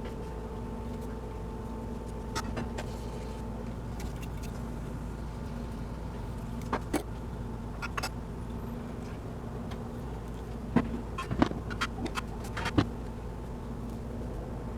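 Scattered small clicks and taps of a brass water inlet fitting being handled and wrapped with Teflon tape, in a cluster near the end, over a steady low hum.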